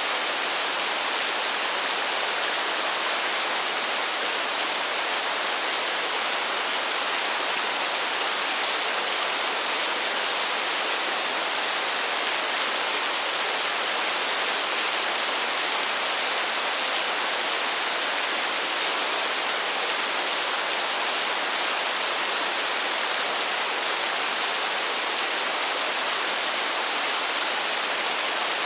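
Steady, even rainfall in a forest, a continuous hiss of rain without any single drops or other sounds standing out.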